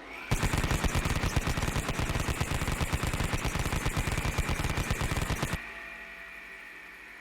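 Automatic gunfire: one sustained burst of rapid shots, about ten a second, starting a moment in and stopping after about five seconds. A steady high whine runs underneath and fades away after the burst.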